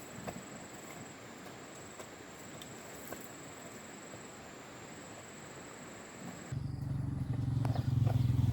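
A faint hiss with a steady high whine, cut off abruptly about six and a half seconds in by a low engine drone, which grows louder to the end.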